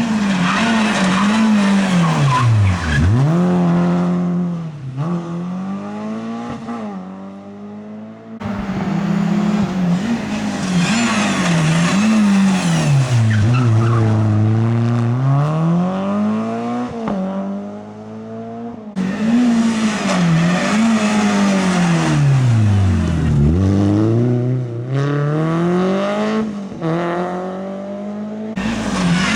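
Rally cars at speed on a stage: engines revving up and dropping away again and again through gear changes and braking, with some tyre squeal. The sound changes abruptly about 8 and 19 seconds in, as one car's run gives way to another's.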